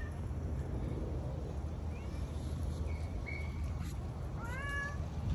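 A stray cat meowing three times, short rising calls about a second apart, the last one longer.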